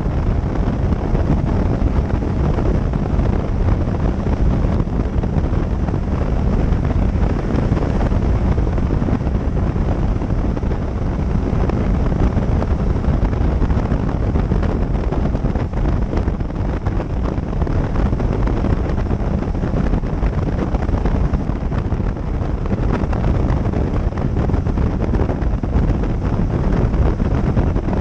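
Wind buffeting the microphone of a motorcycle-mounted camera at riding speed, with the motorcycle's engine running steadily beneath it.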